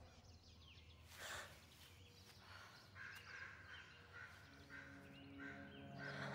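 Faint bird chirps, short calls repeating about three times a second from about three seconds in. Soft sustained music tones come in during the second half.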